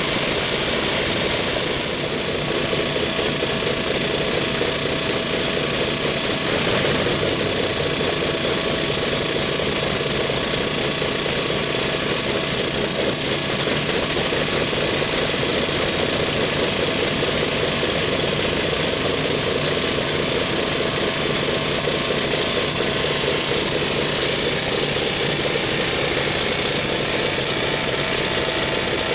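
An engine running steadily at a constant speed, with a dense noise and a few steady hums that do not change.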